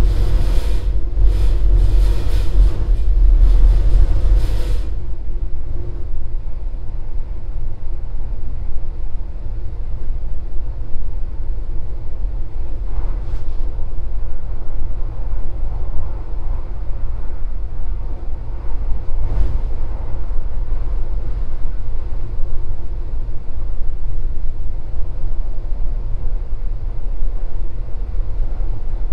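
Cabin running noise of an X420 electric commuter train (a rebuilt German ET 420 multiple unit) at speed: a steady low rumble with a faint motor hum. A harsher hissing rush rides over it for the first five seconds, and there are a couple of faint clicks later.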